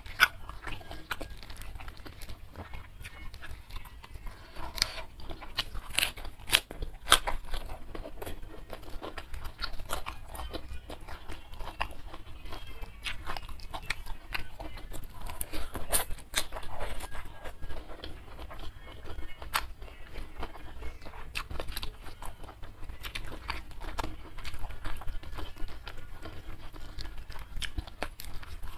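A person chewing crunchy food close to a clip-on microphone, with frequent sharp crunches and clicks coming on and off.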